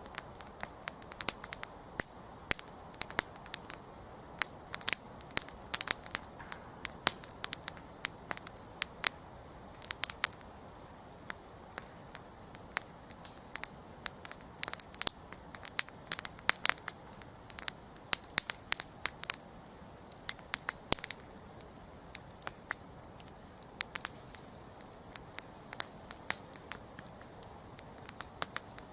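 Wood campfire crackling: irregular sharp pops and snaps, busier in places and sparser in others, over a soft steady hiss of burning.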